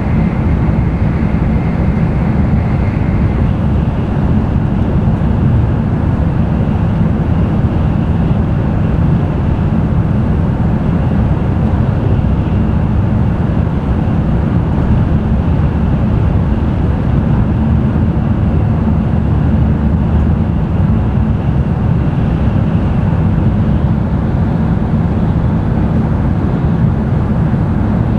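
Cabin running noise of an N700-series Tokaido Shinkansen train at speed: a steady heavy low rumble with a broad hiss above it. A faint high whine fades out about three seconds in.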